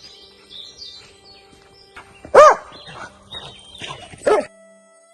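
A dog barking twice, two short rising-and-falling barks about two seconds apart.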